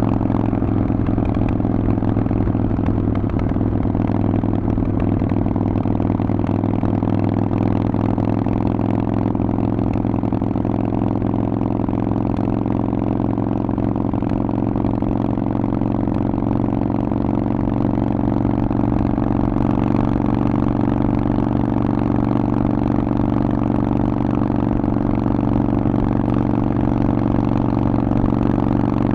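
Harley-Davidson Forty-Eight's air-cooled 1200 cc V-twin running through a Vance & Hines exhaust at a steady, nearly unchanging engine speed.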